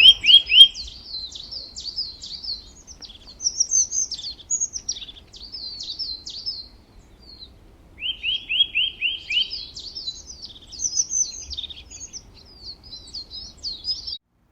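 Songbird singing: high twittering chirps and trills, with a quick run of sharply falling notes at the start and again about eight seconds in.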